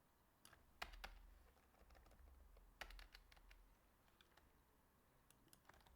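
Faint clicks of computer keys in two short clusters, about a second in and again near three seconds, otherwise near silence.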